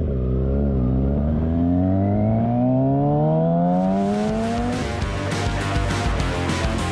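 Motorcycle engine accelerating away, its pitch rising steadily for about five seconds after a brief dip; from about four seconds in, music comes in and takes over.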